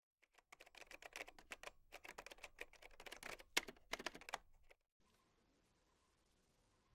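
Rapid, irregular clicking like typing on a keyboard for about five seconds, stopping suddenly and leaving a faint hiss.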